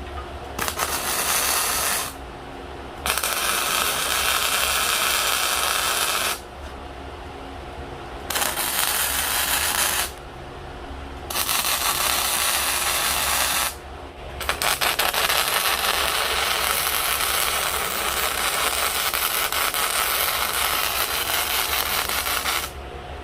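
Electric arc welding on steel plate: five separate weld runs of steady crackling hiss, the last and longest about eight seconds, with short pauses between them and a low hum underneath.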